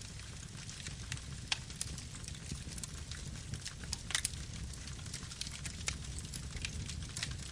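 Campfire burning: burning wood crackles with irregular sharp pops over a steady low rumble, with one louder pop about four seconds in.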